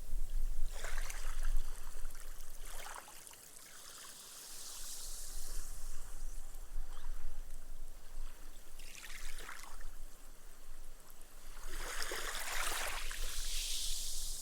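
Small, gentle waves washing up a sandy beach and soaking into the sand, the foam fizzing and hissing as it sinks away. Several washes come and go, with the longest and loudest near the end.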